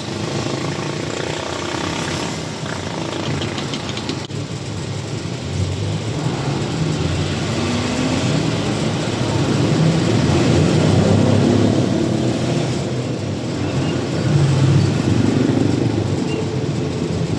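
Truck engine running under way, its pitch rising and falling as it drives through a turn, louder about halfway through.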